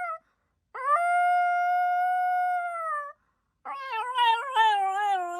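A dog vocalizing back at its owner: one long, steady howling whine, then after a short pause a wavering, yodelling run of whines that drops in pitch near the end.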